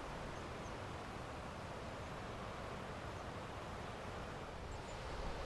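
Faint, steady outdoor campsite ambience: a low, even hiss with a few tiny high chirps, typical of distant birds.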